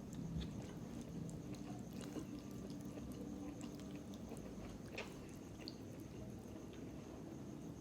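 Close-up eating sounds of a person chewing noodles and ribs, with a few sharp wet clicks from the mouth, one clearest about five seconds in, over a steady low hum.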